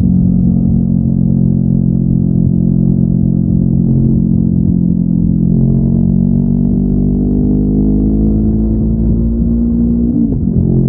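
Honda NX500's parallel-twin engine with stock exhaust running under load, steady at first, then rising in pitch over several seconds as it revs up, and dropping abruptly near the end.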